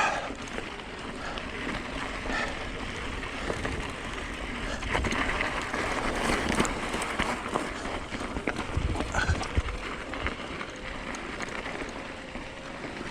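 Mountain e-bike rolling down a rough dirt trail: steady tyre noise on the ground, with scattered knocks and rattles as it goes over rocks, busiest in the middle.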